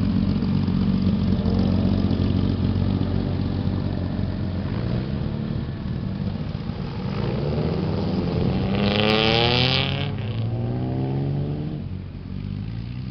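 A car engine idles steadily, then pulls away and accelerates through the gears: the pitch climbs and drops back two or three times as it shifts. There is a brief hiss about two-thirds of the way through.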